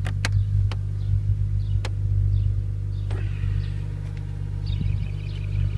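A 2002 BMW M3's 3.2-litre inline-six idling steadily with a low exhaust drone. A few sharp clicks come in the first two seconds.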